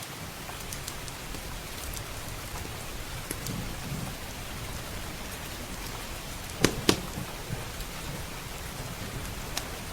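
Steady rain with a crackling wood fire, small scattered crackles and two sharp pops close together about two-thirds of the way through.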